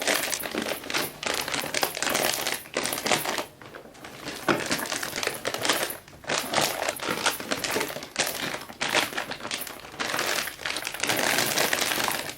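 Plastic snack wrappers crinkling and rustling as they are handled, in bursts with short pauses between.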